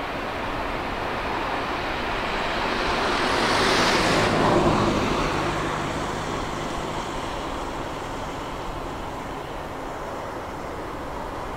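Boeing 777-200 jet airliner going past on its takeoff run, the engine noise swelling to a peak about four seconds in and then fading.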